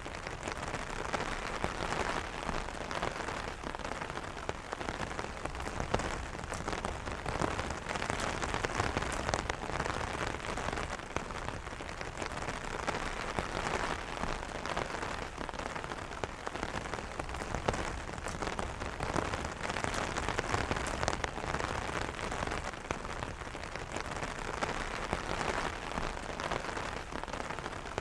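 Steady rain falling on an umbrella: a continuous patter of many drops tapping the fabric canopy, even in level throughout.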